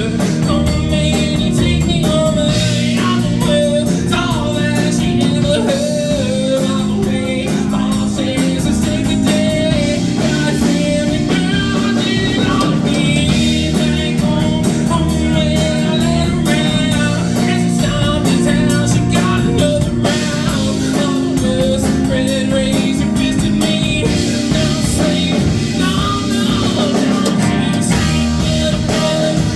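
A live band playing a rock song, with a singer over electric guitar and drums.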